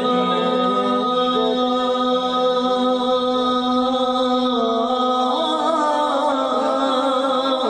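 Male voice singing a naat, an Urdu devotional song in praise of the Prophet, in long held notes that slowly bend in pitch.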